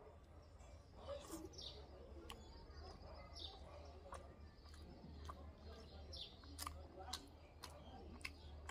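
Faint eating sounds of a person chewing food with his mouth, many small sharp clicks and smacks. A few short falling bird chirps sound in the background over a steady low hum.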